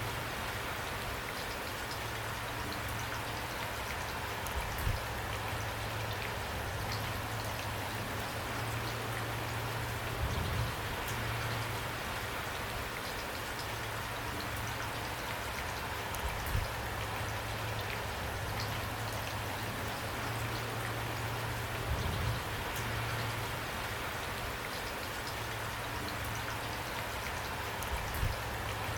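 Steady rain falling, an even patter of drops on a surface, with a low thud every five or six seconds.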